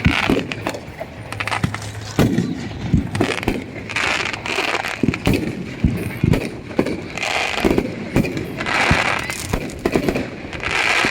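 Fireworks going off: a rapid run of sharp bangs and pops, with several short bursts of crackling hiss between them.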